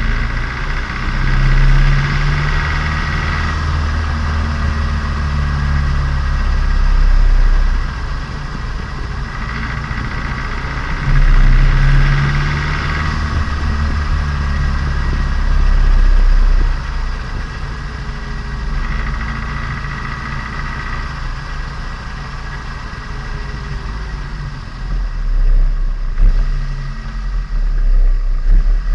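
Turbocharged Nissan Micra engine and exhaust heard from on board while driving, running loud and steady with several stronger surges of acceleration between easier stretches, as the freshly built engine is run in.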